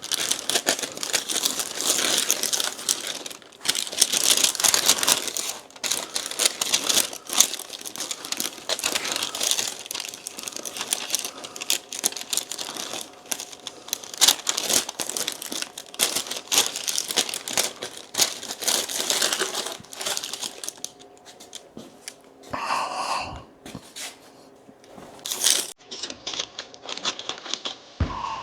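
Masking tape and masking paper crinkling and tearing as a motorcycle fender is masked off for primer. The dense crackling quiets down for the last third, with a brief squeal partway through that stretch.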